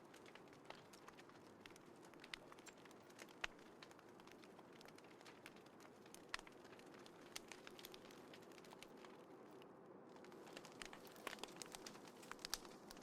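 Small wood fire burning in a compact folding fire stand, crackling with frequent sharp pops over a faint steady hiss; the pops come thicker near the end.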